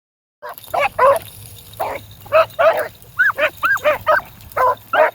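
Beagles barking in quick succession: about a dozen short barks, several rising and falling in pitch.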